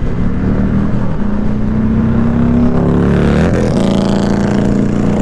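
Motorcycle engine running under way, its pitch climbing slowly, then dipping and wavering briefly about three and a half seconds in, a gear change, before running steady again, with road and wind noise throughout.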